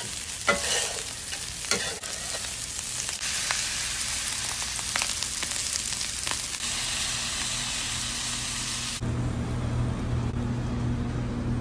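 Rice and sweet peppers frying in an All-Clad stainless skillet, a steady sizzle with a few scrapes of the spatula against the pan in the first couple of seconds. About nine seconds in the sizzle cuts off suddenly, leaving a low steady hum.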